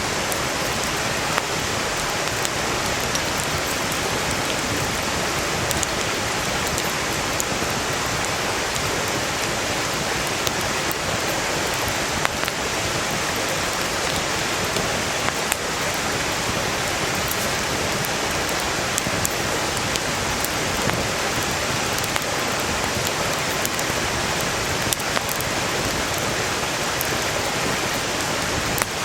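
Valley stream rushing steadily and loudly, with scattered sharp crackles and pops from a wood campfire burning.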